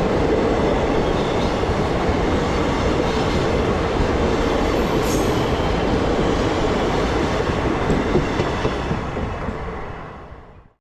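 Passenger train coaches rolling past, a steady rumble of wheels on the rails with a brief high screech about five seconds in; the sound fades out near the end.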